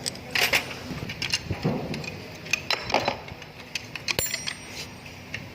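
Metal transmission parts and hand tools clinking and knocking against each other in an irregular series of sharp clicks, over a steady low workshop hum.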